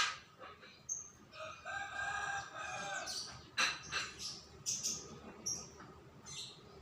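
A rooster crowing once, a single drawn-out call of about a second and a half, with small songbirds chirping in short high notes before and after it.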